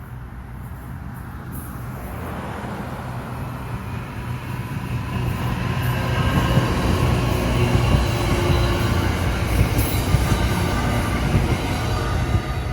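NJ Transit train approaching and passing close by, the rumble of the cars growing louder over the first six seconds and staying loud.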